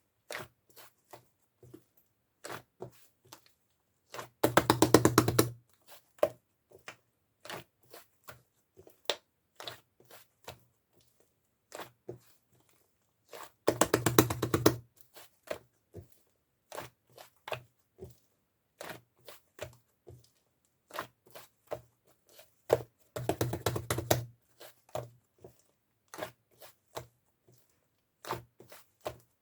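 Slime being played with by hand: scattered sticky clicks and pops, with three bursts of rapid crackling about every nine seconds, as the slime is squished and pulled apart.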